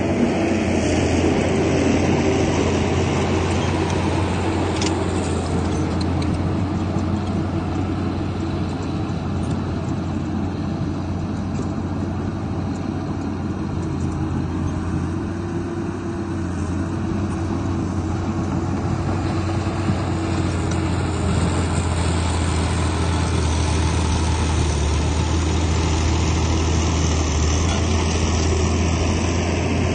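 Heavy diesel engine of earthmoving machinery running steadily with a deep, continuous drone, easing slightly around the middle and building again later.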